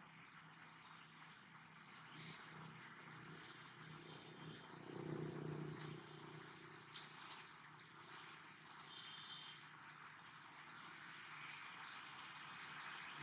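Faint outdoor ambience of birds chirping: short high chirps repeating every second or so over a steady hiss.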